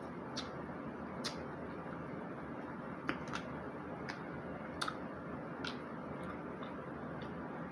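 Snow crab shell being cracked and handled while eating: scattered sharp clicks and snaps, about nine over several seconds, over steady background noise.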